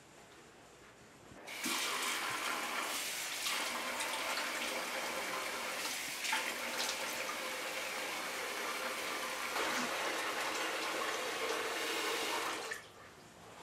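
Running water, a steady rushing splash that starts suddenly about a second and a half in and stops abruptly near the end.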